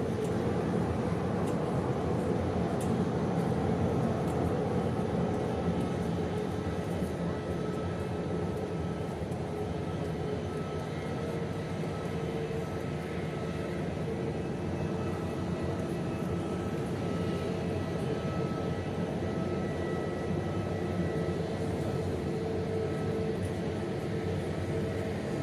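Jet airliner engines heard from inside the passenger cabin: a steady rush with a faint droning hum, slightly louder in the first few seconds.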